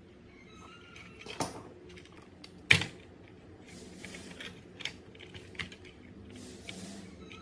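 Small hard parts being handled: scattered clicks and taps, one sharp click a little under three seconds in, with a few short rustling noises.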